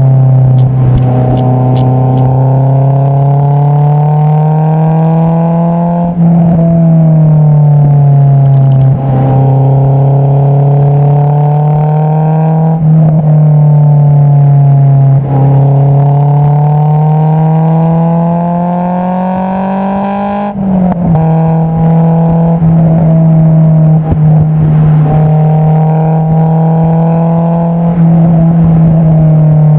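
Honda S2000 inline-four heard at the tailpipe through an Invidia Q300 exhaust while driving. The note climbs slowly in pitch and drops back several times, with stretches held steady.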